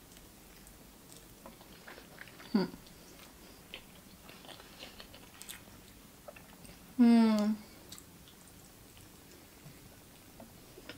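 Close chewing and biting of a thick burger, with small wet mouth clicks scattered throughout. A short falling voice sound comes about two and a half seconds in, and a louder held voice sound about seven seconds in is the loudest thing.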